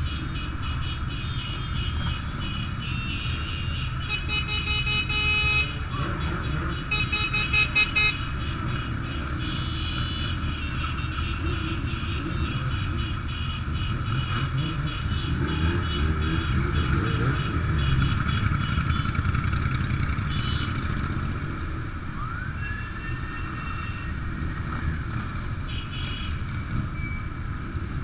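Motorcycle engines running together in a slow group ride, a steady low rumble. Horns honk in two bursts, about four and seven seconds in.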